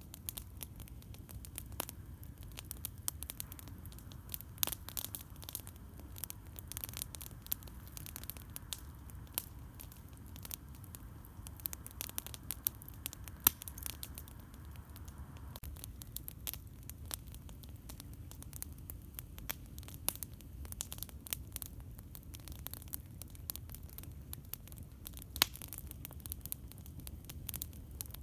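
Campfire burning with steady irregular crackling and popping of the wood over a low background rumble.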